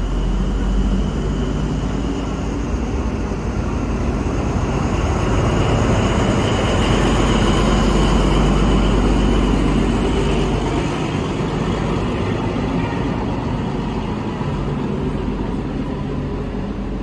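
A passenger train running through the station: steady rumbling rail noise that swells to a peak about halfway through and then slowly fades, with a faint high whine above it.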